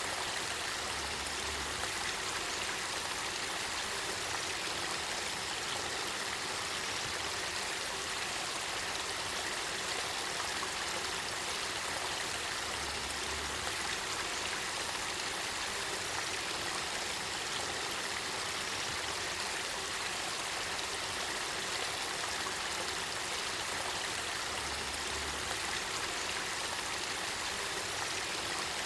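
Spring water flowing in a spring-fed stream: a steady, even rush of water with no breaks.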